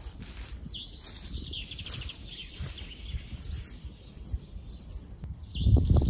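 Spring woodland ambience with birds chirping faintly, and a louder low rustle about five and a half seconds in.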